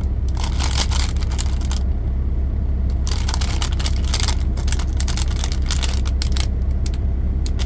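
Plastic snack wrapper crinkling and rustling in several bursts while being handled and opened, over the steady low hum of an idling vehicle engine.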